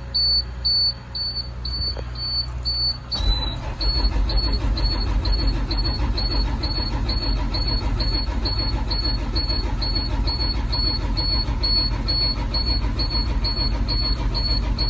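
School bus diesel engine being cranked by its starter from about three seconds in and not catching, because the engine has lost its fuel prime after sitting. A dashboard warning beeper beeps about twice a second the whole time.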